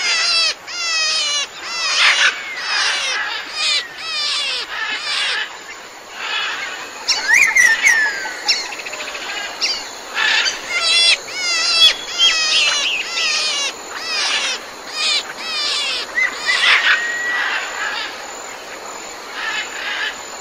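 Birds chirping: quick runs of short, repeated chirps, with a couple of longer whistled notes in the middle.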